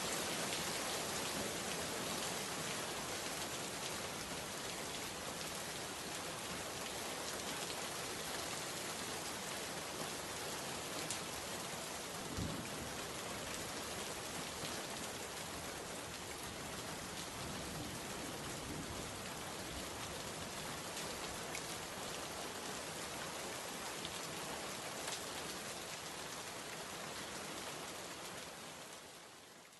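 Steady rain falling, with a few sharper drop ticks standing out, fading out near the end.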